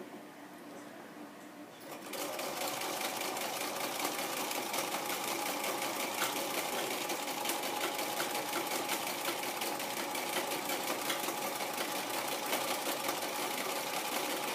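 Domestic sewing machine stitching steadily at a fast even rate, quilting with a ruler foot around a template. It starts about two seconds in after a short quiet spell.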